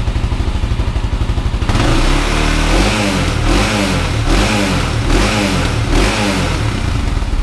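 1999 Honda 400EX ATV's single-cylinder four-stroke engine through its stock muffler, idling for about a second and a half and then revved in about five quick throttle blips, each rising and falling.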